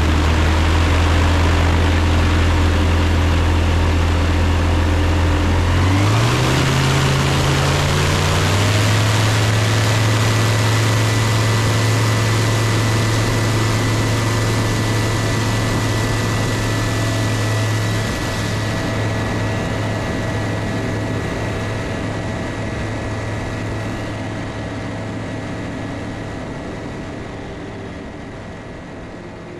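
Savannah microlight's engine and propeller running steadily, then rising in pitch about six seconds in as the power comes up and holding there; the sound fades out gradually over the last ten seconds.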